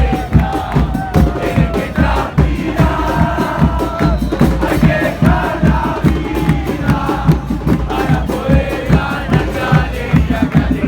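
An Argentine football crowd singing a terrace chant in unison over fast, steady bass-drum beats.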